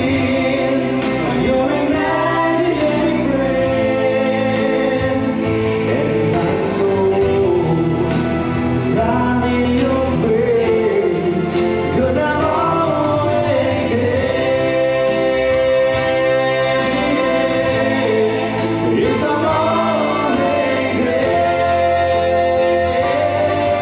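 Music with a choir-like group of voices singing long held notes, sliding slowly from pitch to pitch over a steady accompaniment.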